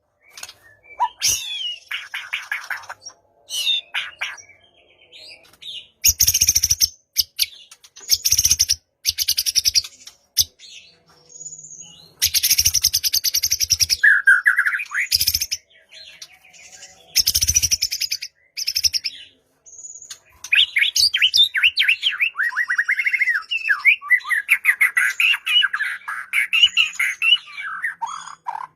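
White-rumped shama (murai batu) singing a long, varied song of whistled phrases and quick trills, broken by several loud harsh rasping bursts.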